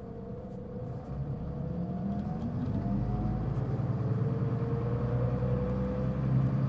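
Mitsubishi Fuso Aerostar LKG-MP37FK city bus accelerating. Its diesel engine's drone rises in pitch and loudness over the first three seconds, and a steady whine sits above it until about four seconds in. The bus is noted for making a considerable abnormal noise.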